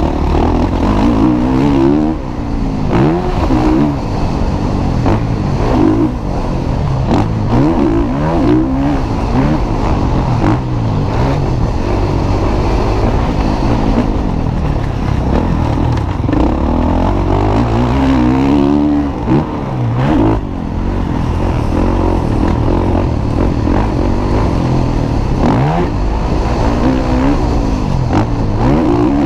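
Motocross bikes racing, their engines loud and revving up and dropping again and again as the riders work the throttle around the track.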